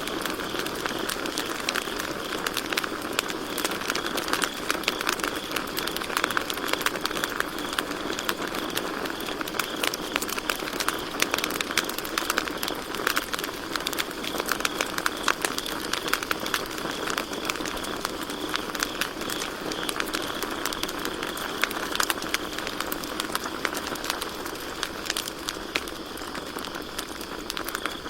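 Campfire burning with constant crackling and frequent sharp pops over a steady hiss. Crickets trill steadily and high in the background.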